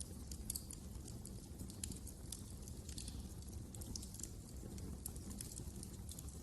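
Wood fire crackling in a fireplace: frequent small, sharp pops and snaps at an irregular pace over a low, steady rumble.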